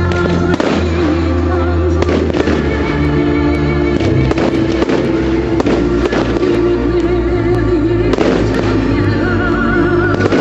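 Fireworks display: a string of sharp bangs and crackles from bursting aerial shells, heard over loud music with sustained notes.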